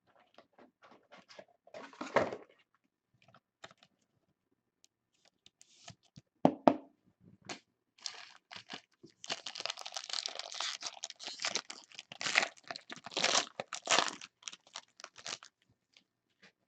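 A plastic or foil wrapper crinkling and tearing, after a few seconds of scattered clicks and taps from cards being handled.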